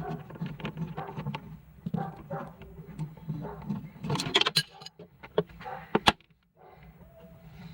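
Irregular clicks, knocks and rattles of hand work on a mini refrigerator, with a louder cluster about four seconds in and a sharp click just after six seconds, over a low steady hum.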